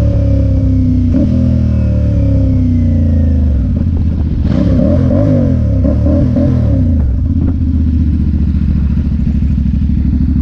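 Motorcycle engine heard from the rider's position, its pitch falling in several steps as the bike slows through the gears, then wavering briefly before settling into a steady low running note.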